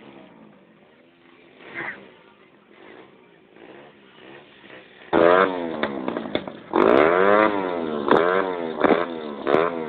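Motorcycle engine revved again and again, its pitch sweeping up and down with each twist of the throttle. It starts loud about halfway through after a quieter stretch.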